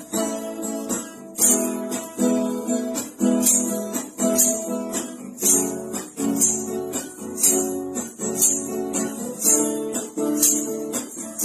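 Acoustic guitar strumming chords in a steady rhythm, with a sharp, bright accent about once a second and no singing.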